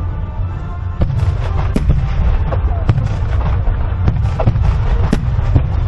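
A rapid starmine barrage of aerial firework shells bursting over a lake: many sharp bangs, several a second, over a continuous low rumble of booms and their echoes.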